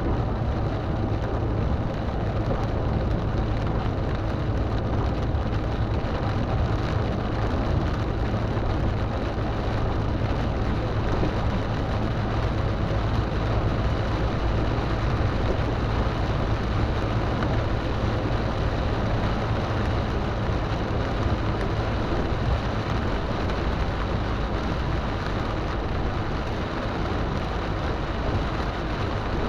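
Heavy rain with the steady low hum of a car underneath, an even rushing noise that does not change.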